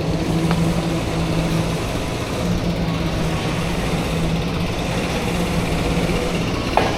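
Wind rushing over a chest-mounted action camera's microphone while riding a bicycle, with a steady low hum that drops out now and then. A short sharp click near the end.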